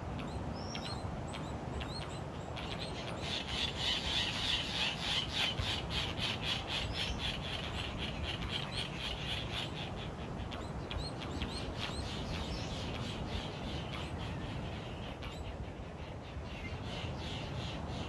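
Birds calling: a fast rattling chatter, loudest a few seconds in, with short rising chirps here and there, over a steady low rush.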